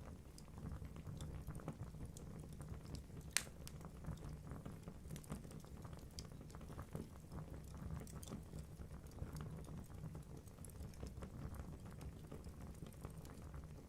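Wood fire burning in a fireplace: a low steady rumble of flames with many small irregular crackles of burning logs and one sharper pop about three seconds in.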